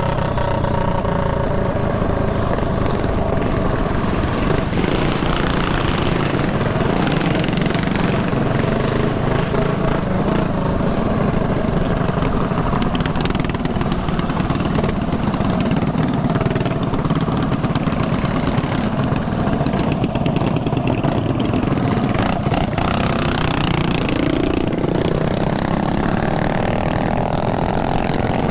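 Small single-cylinder mini bike engine running under way, with wind rumble on the helmet-mounted microphone; the revs rise near the end.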